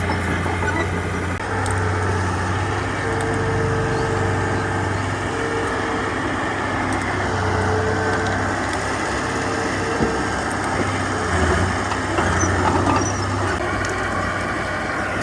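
Heavy diesel engine of earthmoving machinery running steadily, its hum shifting a little in pitch, with a few louder moments from about ten to thirteen seconds in.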